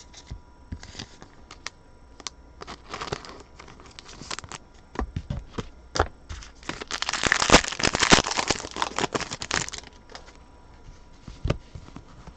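A trading-card pack wrapper crinkling and being torn open, with cards being handled. Scattered rustles and clicks lead up to a louder stretch of crinkling and tearing about seven to ten seconds in.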